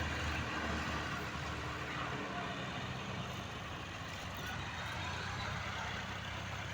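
Diesel tractor engine running steadily with a low, even hum.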